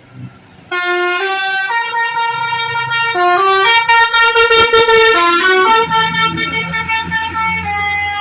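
A bus's multi-tone musical air horn, the Indonesian 'telolet' kind, plays a tune of stepped notes. It starts loud about a second in and carries on until near the end.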